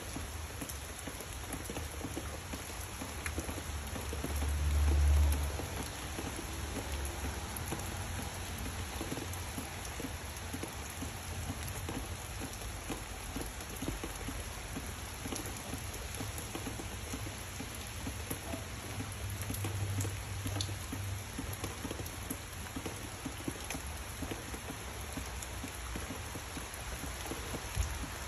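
Steady rain falling on trees and foliage, an even hiss of many drops. Two brief low rumbles come through, the louder about five seconds in and a weaker one about twenty seconds in.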